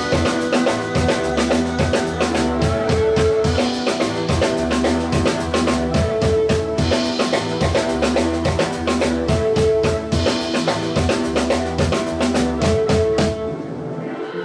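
Live rock band playing an instrumental passage: a drum kit with kick and snare keeps a steady beat under bass and guitar. The band thins out for about a second near the end before the drums come back in.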